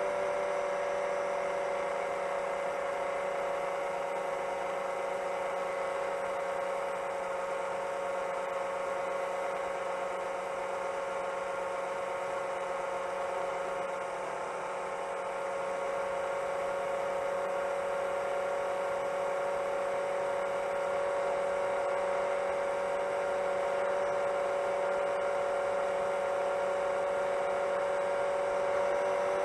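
FPV quadcopter's motors and propellers whining steadily in cruise, one strong pitch with several higher tones. The pitch and level sag slightly about halfway through, then hold steady.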